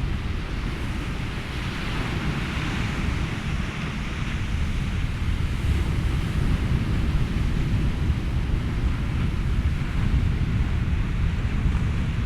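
Ocean waves and wind blended with white noise: a steady low rumble under a soft hiss that swells gently a couple of seconds in and then evens out.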